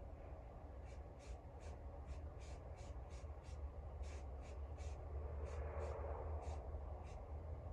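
Aerosol spray-paint can in use: short high hissing strokes, about three a second, over a low steady hum.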